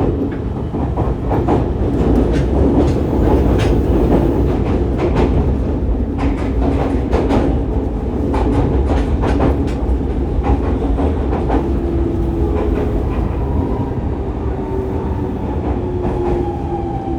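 Fukuoka City Subway 2000-series train with a Hitachi GTO-VVVF inverter running, heard from inside the car: a steady rumble with wheels clicking over rail joints. In the second half the inverter's tones fall slowly in pitch as the train decelerates.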